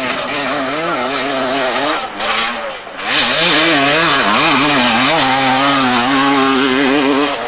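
Motocross motorcycle engines revving, the pitch rising and falling as the throttle is worked, louder from about three seconds in.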